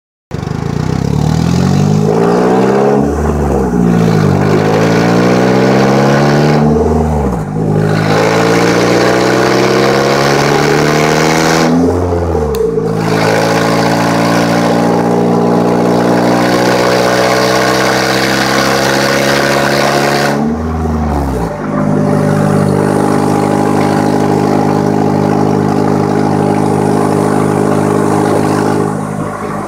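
Polaris Slingshot's four-cylinder engine through a Hot Shot aftermarket exhaust, accelerating through the gears: the exhaust note climbs in pitch and drops back at each of about four upshifts, then holds steady at cruise.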